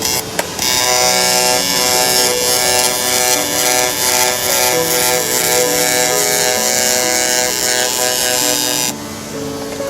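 Harsh, steady buzzing hiss of metalwork on a steel suspension frame. It starts about half a second in and cuts off about a second before the end. A melody with a stepping tune plays under it throughout.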